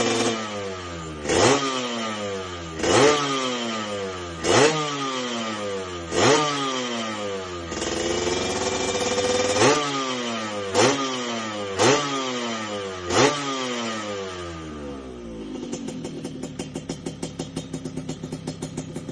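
Yamaha RX-King's single-cylinder two-stroke engine being blipped: about eight quick throttle blips, each revving up sharply and sliding back down. Near the end it settles into a fast, pulsing idle.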